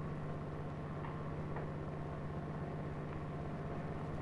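Steady low hum with a constant hiss underneath, unchanging throughout: the background noise of an old 1945 film sound recording.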